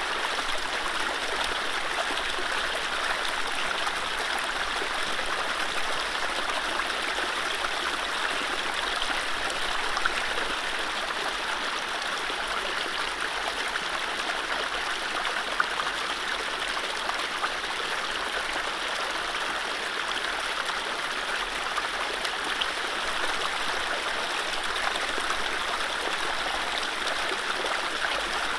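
Mountain stream running over low rapids: a steady rush of water with small splashes and trickles, no birdsong.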